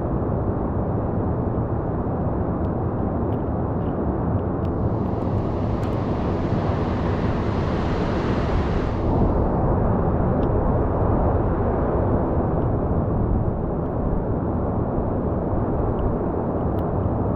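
Steady roar of heavy storm surf and wind. A brighter, hissing wash of breaking water rises about five seconds in and fades again about four seconds later.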